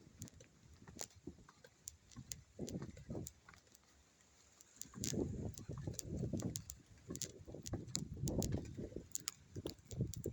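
Big waves on a large lake, heard as irregular low rumbling surges with scattered sharp clicks; the surges ease off in the middle and come back stronger about five seconds in.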